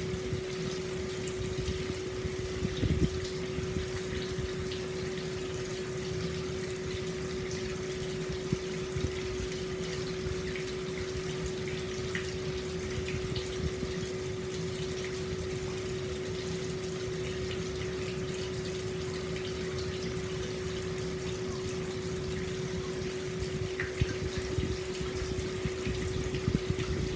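Hot spring water pouring steadily into an open-air bath, with a steady low hum underneath and a few brief splashes.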